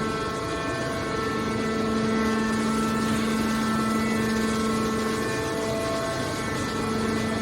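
Hydraulic scrap-metal baler running: a steady mechanical hum with a constant pitch and overtones from its motor and hydraulic pump.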